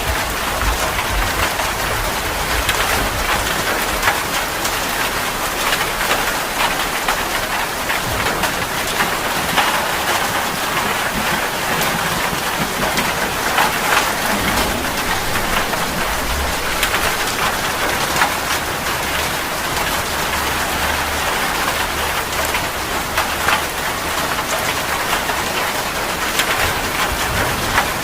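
Steady heavy rainfall, a dense even hiss of rain on surfaces, dotted with countless individual drop taps.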